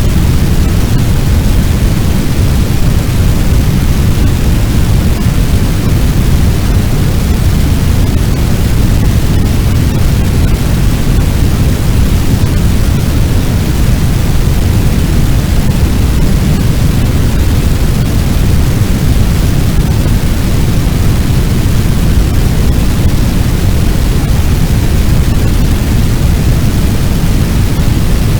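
Fire sound effect: a loud, steady, deep rushing noise like a large blaze, heaviest in the low end, with no letup.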